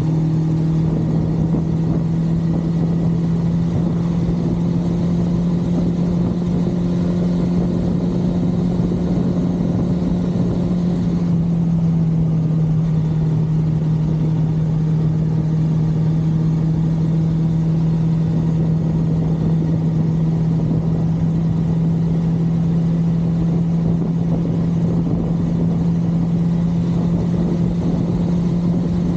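1982 Suzuki GS550L's air-cooled inline-four engine running steadily at cruising speed, with wind rumble on the microphone; the engine note drops slightly partway through and then holds.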